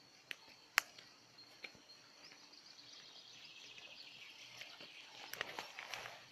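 Small campfire of kindling crackling as it catches: a few sharp pops in the first two seconds, then a denser hissing crackle building from about halfway through.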